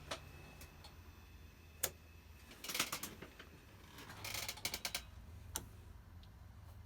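Sharp clicks of switches or buttons being worked during a Boeing 787 power-up: a few single clicks and two quick clusters of clicks, over a low steady hum.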